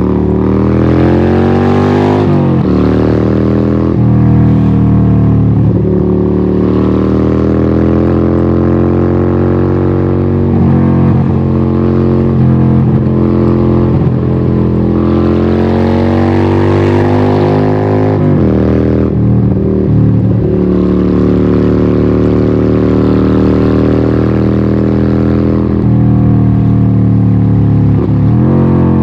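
Harley-Davidson 1200 Nightster's Evolution V-twin running loud through a Vance & Hines exhaust while under way. The engine pitch climbs, drops sharply at a few gear changes (about two and a half seconds in, about two-thirds through, and near the end) and holds steady in between.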